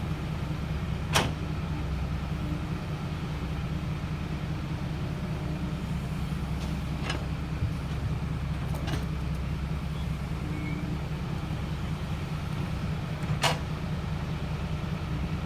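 Truck engine running steadily at a low drone, with a few sharp clicks or knocks scattered through it.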